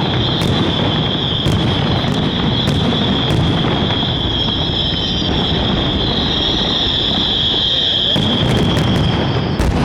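Fireworks display: a dense, continuous rush of noise with a steady high-pitched hiss, broken by scattered sharp cracks, several in quick succession near the end.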